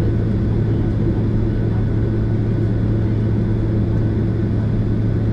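Steady cabin noise inside a Boeing 767 airliner: an even drone of the engines and air system with a strong low hum and a faint high whine.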